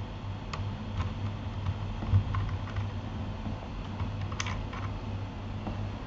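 Scattered keystrokes on a Keychron K8 mechanical keyboard: soft, irregular clicks with a quick cluster near the end, over a steady low hum.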